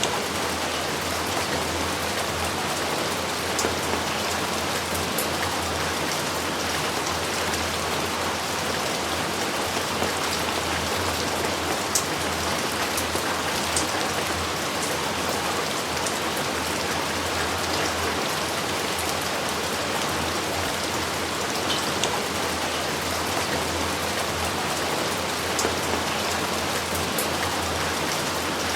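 Steady heavy rain falling on surfaces, a dense even hiss with scattered individual drop ticks.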